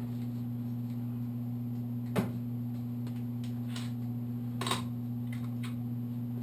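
Steady low hum with a few sharp clicks and knocks of hand work on the engine. The loudest click comes about two seconds in, and another knock a little past the middle.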